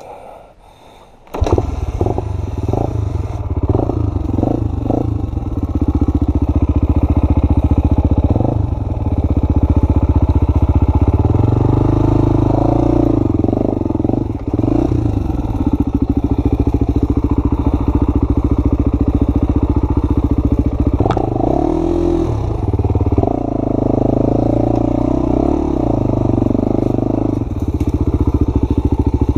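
Honda XR250's single-cylinder four-stroke engine under way on a dirt trail, revving up and down as the rider works the throttle. It starts abruptly about a second in.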